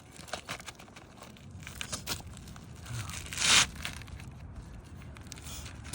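Asphalt roof shingles being pried up and pulled apart: scattered crackles and a short, loud tear a little past halfway as a shingle's layers or seal strip come apart.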